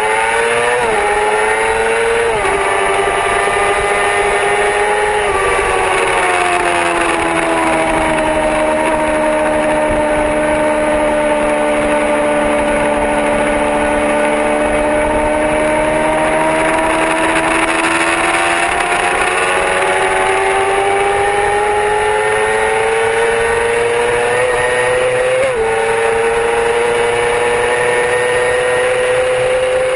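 Yamaha R6 sport bike's inline-four engine running hard at high revs, over a steady rush of noise. Two quick gear changes come in the first few seconds; the revs then sink slowly, hold low for a while and climb steadily again, with a sharp jump in pitch near the end.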